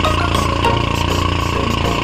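An engine running steadily at idle with an even, rapid pulse.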